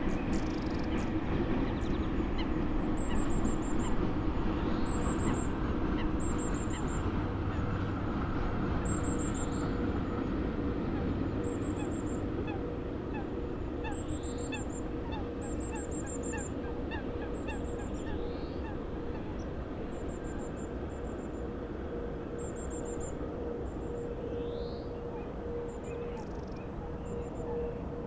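Birds calling at a lakeside: a short, high trill repeats every second or two among scattered chirps and rising whistles. Underneath is a steady wash of wind and water noise. A low rumble, the tail of a passing train, eases off over the first dozen seconds.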